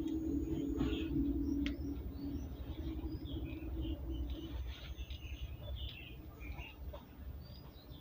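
Birds chirping in the background in many short, scattered calls, over a steady low hum.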